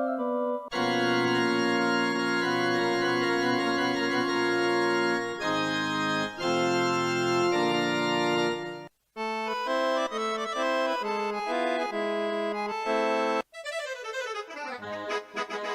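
Yamaha PSR-E373 portable keyboard playing short demo phrases of held chords and melody, one built-in voice after another, here organ and accordion voices. The tone changes every four to five seconds, with a short silence about nine seconds in.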